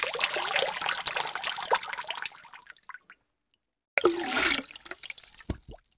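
Water splashing and gurgling in two separate takes: the first fades out after about three seconds, and the second starts about four seconds in with a gurgle that drops in pitch, ending in a few soft knocks.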